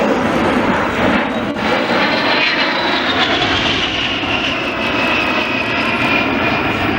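A-10 Thunderbolt II's twin turbofan engines running loud as the jet flies past. A high whine holds, then falls steadily in pitch over the second half as the jet goes by.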